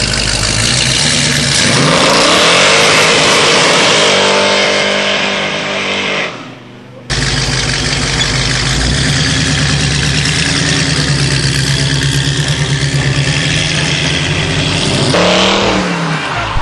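Chevrolet Camaro muscle car engine revving hard, its pitch climbing over the first seconds. After a sudden break about seven seconds in, it runs loud with a pulsing beat, then drops and revs up again near the end.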